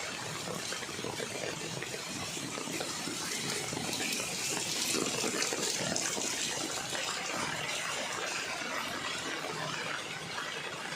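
Floodwater rushing and splashing in a steady noisy wash, swelling a little about four seconds in.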